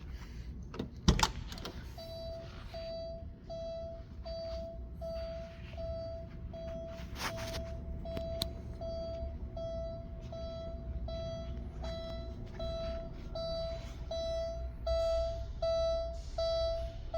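A clunk about a second in, then the 1988 Porsche 944's warning chime beeping steadily on one pitch, about one and a half beeps a second, with a few knocks in between.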